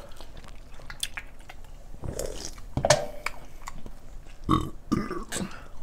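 Close-miked mouth sounds of eating and drinking: chewing, lip smacks and swallows of canned soda, heard as short scattered clicks and smacks.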